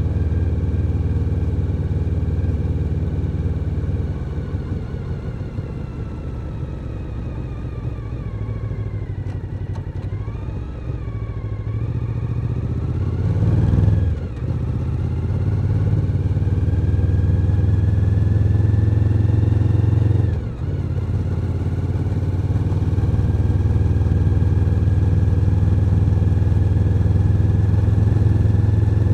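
Suzuki SV1000N's 90-degree V-twin on the move: the engine note eases off early on, then builds under acceleration and breaks twice as it shifts up, about halfway through and again about two-thirds in, before holding a steady cruising note.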